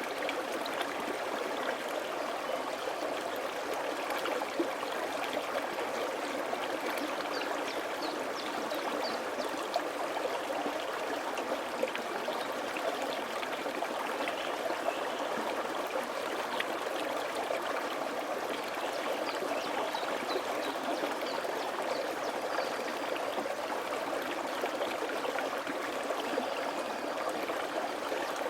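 A mountain valley stream running over rocks, steady rushing and babbling water with small splashes scattered through it.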